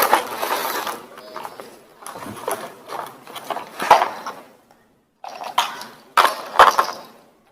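Toy truck being handled and set down: clattering and rattling in several bursts, with a few sharp knocks near the end.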